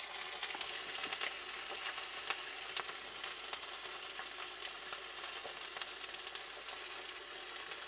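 Chicken frying in hot grease in a cast-iron skillet: a steady sizzle with many small crackling pops.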